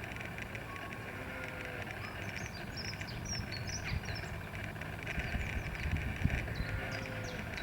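Outdoor ambience: small birds chirping in many short, quick high notes, over a steady hiss and a low, gusty rumble.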